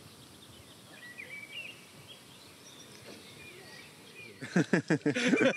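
Faint birdsong, a few short chirps, over quiet open-air background. Near the end a man's voice starts up loudly.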